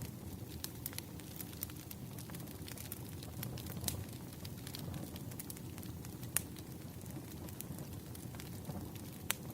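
Wood fire burning: a steady low rumble with irregular sharp crackles and pops, a few standing out louder about four, six and nine seconds in.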